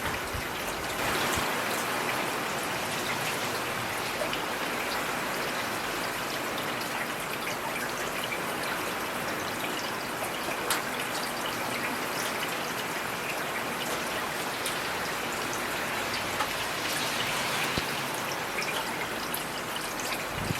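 Heavy rain falling steadily, an even hiss with scattered individual drops ticking through it.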